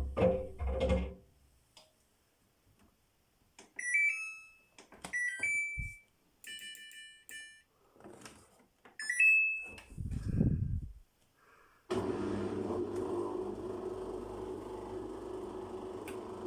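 Samsung washing machine's control panel beeping as buttons are pressed, a few short beeps and a short multi-note chime, after a low rumble of the machine dies away at the start. About twelve seconds in, the machine starts up with a steady motor hum.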